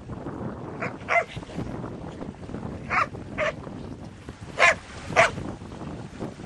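A dog barking in three quick pairs of short barks, the last pair the loudest, with wind rumbling on the microphone.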